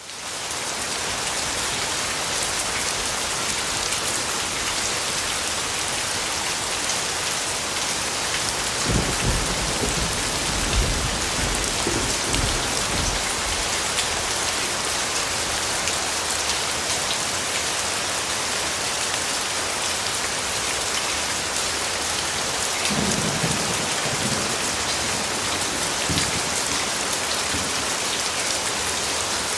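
Steady rain falling, with thunder rumbling low twice: a longer roll about nine seconds in and a shorter one about two-thirds of the way through.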